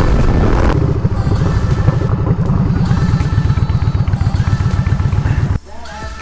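Yamaha Bolt's V-twin engine running at speed under wind noise on the mic, a loud, dense low rumble. About five and a half seconds in it cuts off abruptly, leaving a much quieter passage.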